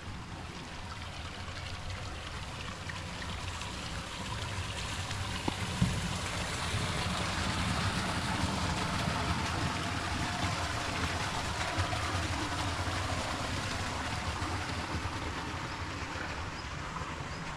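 Running water, growing louder to its fullest about halfway through and easing off near the end. There is a single sharp knock about six seconds in.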